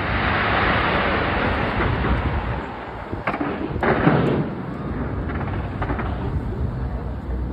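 A fireworks display going off: a dense crackling of many bursts with low booming underneath. A sharp bang comes about three seconds in, followed at once by another loud burst.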